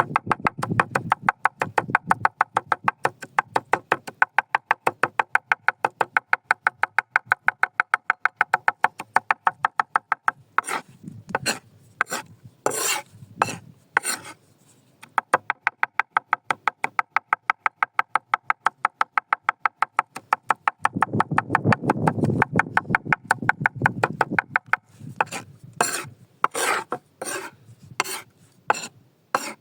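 Rapid, even rasping strokes, about five a second, in two long runs, with a handful of louder sharp knocks in the gap between them and again near the end.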